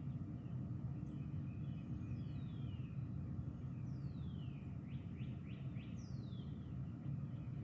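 Birds calling outdoors: three clear downward-sliding whistles and a quick run of short rising notes, over a steady low rumbling background noise.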